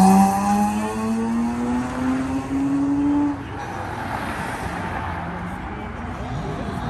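A car engine accelerating hard, its note climbing steadily in pitch for about three seconds. It then falls away as the car leaves, and a softer, even rush of noise remains.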